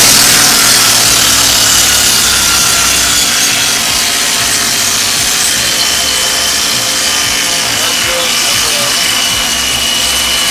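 Old tractor engine running steadily and loud, just after being started on the choke.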